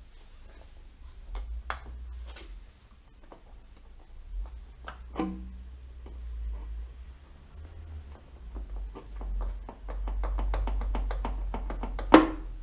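Scattered knocks, taps and clicks of metal parts and tools being handled, over a low steady hum. Near the end comes a quick run of ticks, then one loud sharp knock.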